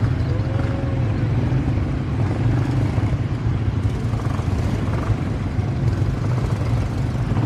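ATV engine running steadily while being ridden, a constant low rumble.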